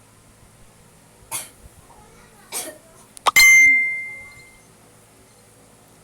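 Two short coughs, then a sharp metallic ding, the loudest sound, that rings out and fades over about a second.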